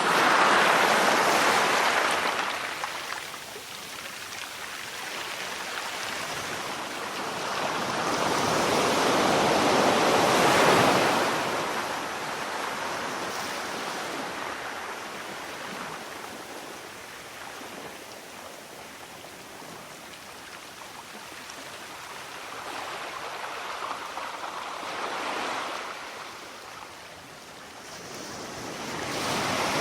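Sea waves breaking and washing in, slow surges of surf that build and fade over several seconds each, the strongest at the start and about ten seconds in, a weaker one later, and another building near the end.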